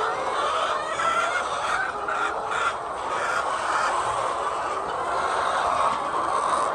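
A flock of chickens clucking and calling, many birds at once in a steady, continuous chatter.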